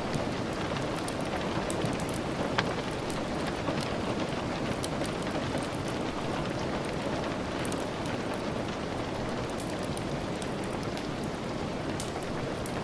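Steady rain, with scattered sharp ticks and crackles throughout and a louder one about two and a half seconds in.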